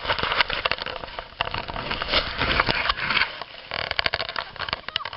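Irregular crunching and crackling of snow, with wind buffeting the microphone, heaviest in the first half second.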